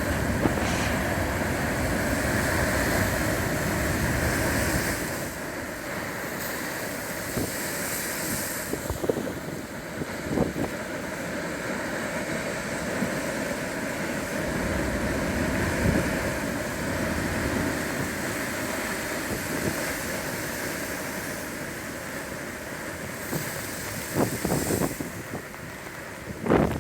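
Ocean waves breaking and washing in as a continuous rush of surf, heaviest in the first few seconds. Wind buffets the microphone in occasional gusts, most strongly near the end.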